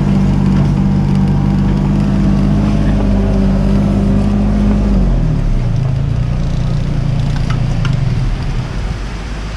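Mini excavator's diesel engine running steadily at working speed, then dropping to a lower speed about halfway through, with the sound getting quieter near the end.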